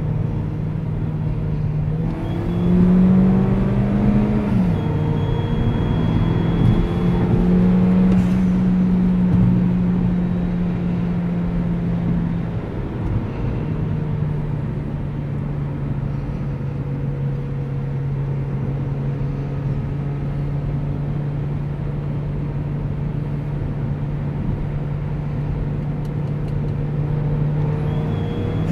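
2015 Mini Countryman S's turbocharged engine accelerating hard at wide-open throttle, with turbo whine. The engine note climbs, drops sharply about four and a half seconds in at a gear change, pulls again, then settles to a steady cruise about thirteen seconds in.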